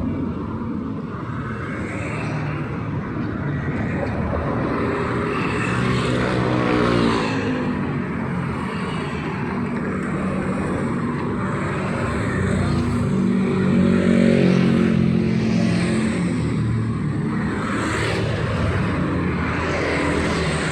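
Street traffic: vehicles driving past with engines running over steady road noise. Louder passes come about 7 and 14 seconds in, one with its engine pitch rising as it speeds up.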